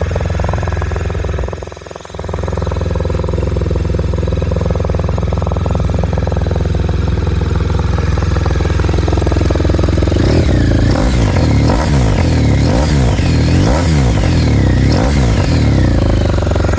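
BMW R1200RS boxer-twin engine idling through a GPR aftermarket silencer. It drops out briefly about two seconds in, then near the end is blipped about five times, the pitch rising and falling with each blip.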